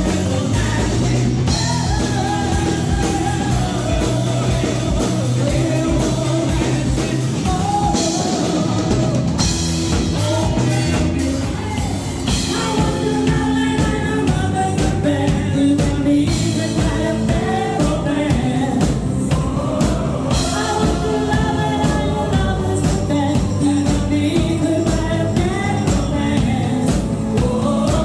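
Live band playing a rock song: a lead singer over drum kit and backing instruments.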